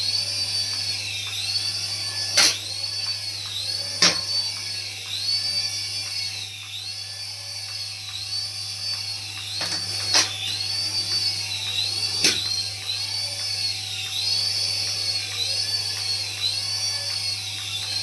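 Remote-control toy's electronic sound effect: a high warbling whine that dips and rises again about once a second, with a few sharp clicks along the way.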